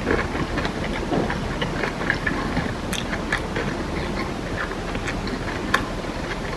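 Close-up chewing of kimbap and kimchi, with many irregular crunchy mouth clicks over a steady low rumble.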